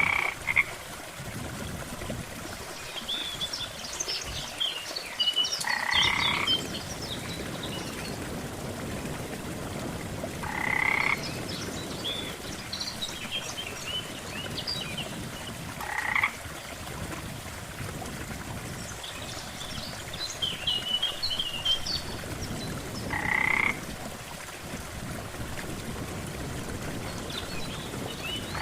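Frogs croaking at a lake: a short, rasping croak comes about every five to six seconds, with clusters of higher chirping calls in between. A steady wash of water sound runs underneath.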